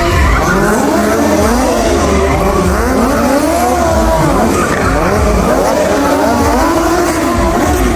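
Vehicle engines revving, with tyres squealing and skidding, the pitch gliding up and down throughout.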